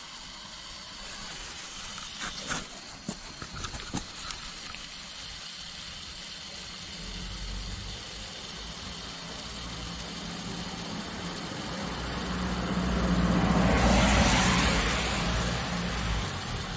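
A motor vehicle passing: a low engine rumble builds, is loudest about fourteen seconds in, then fades. Under it runs a steady faint hiss, with a few sharp clicks in the first few seconds.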